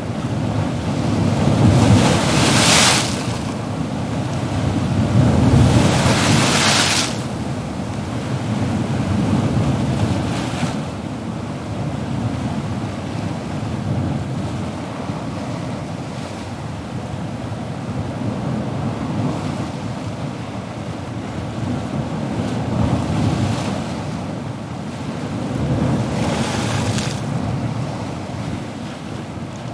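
Ocean surf: a continuous wash of waves, with louder breaking waves about two seconds in, about six seconds in, and again near the end.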